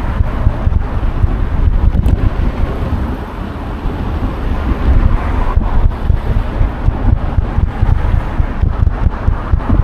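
Wind buffeting the microphone of an action camera on a moving bicycle: a loud, fluttering low rumble that eases briefly about three seconds in, then comes back.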